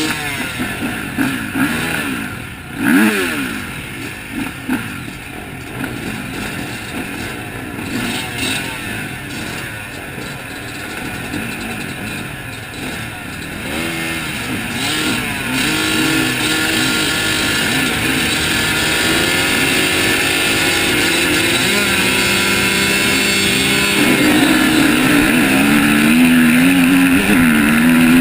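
Several MX1-class motocross bikes racing, their engines revving up and down as they are ridden round the track. They get louder and more sustained about halfway through.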